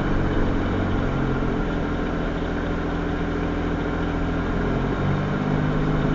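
Car engine idling steadily, heard from inside the car, its tone shifting slightly about five seconds in.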